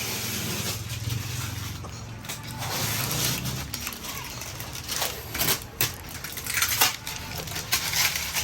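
Rustling and crinkling of things being handled and moved, with several sharp clicks and knocks in the second half.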